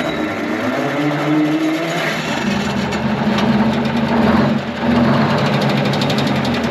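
Twin-turbo Detroit Diesel 12V71 two-stroke V12 diesel catching and running up to speed, rising in pitch over the first couple of seconds, then running steadily with a brief dip about four and a half seconds in.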